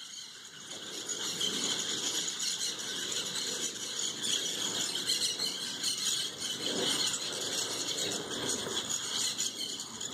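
A flock of green parrots squawking and chattering without pause, many shrill calls overlapping. The noise swells up over the first second.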